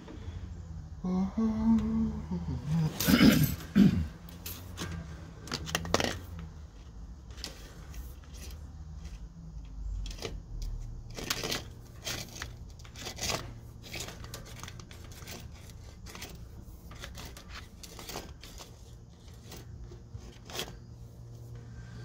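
Scattered clicks, knocks and scrapes as a drain inspection camera's push rod is fed down a drain pipe, with a low steady hum coming in about halfway.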